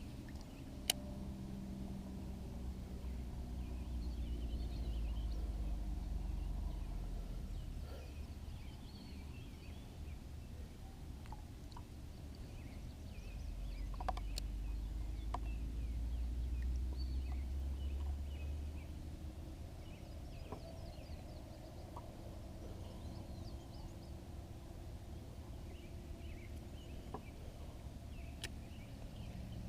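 Open-air ambience picked up by a kayak's bow-mounted action camera: a low rumble that swells up twice, faint bird chirps and a few light clicks.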